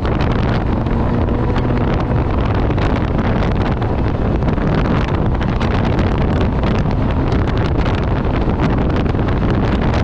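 Off-road race vehicle running at speed over dirt, a steady engine and road noise with many small knocks and rattles, and wind on the microphone.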